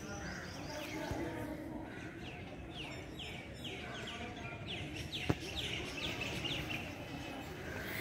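Birds chirping: one bird sings a run of quick, falling chirps, about three a second, through the middle of the stretch, over a steady low background noise. A single sharp click comes about five seconds in.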